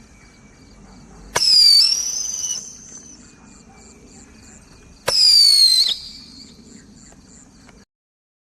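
Roman candle firing two shots about four seconds apart. Each is a sharp pop followed by a high whistle that falls in pitch and then holds for about a second. Crickets chirp faintly between the shots, and the sound cuts off suddenly near the end.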